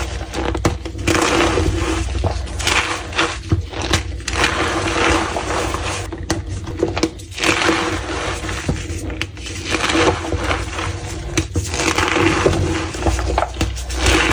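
Blocks of blue-dyed gym chalk being snapped and crushed, in a continuous run of squeaky, crunchy crumbles and sharp cracks, with a steady low hum underneath.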